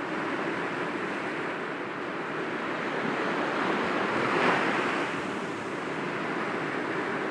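Small sea waves breaking gently against rocks, a steady wash of surf that swells once about four and a half seconds in.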